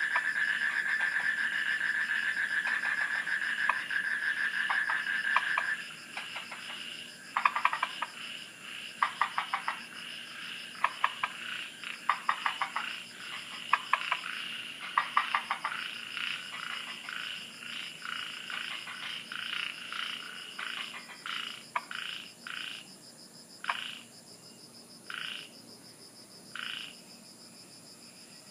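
Frogs calling at night in bursts of rapid clicking pulses, growing sparser toward the end, over a faint steady high drone of insects. A steady shrill trill stops about six seconds in.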